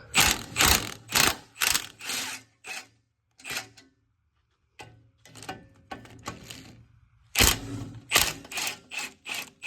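Hand ratchet clicking in repeated short strokes, about two a second with a brief pause partway through, as it backs off 14 mm exhaust nuts.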